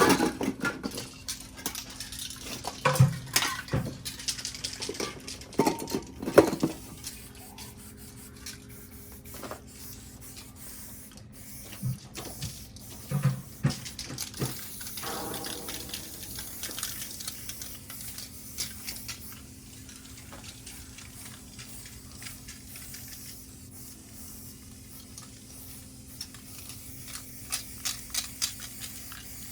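Aerosol spray paint cans hissing in stretches, with scattered knocks and clicks.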